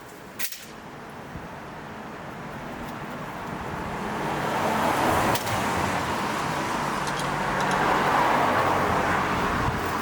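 Motor vehicle engine and road noise that grow louder over the first four or five seconds and then hold steady. A single click comes about half a second in.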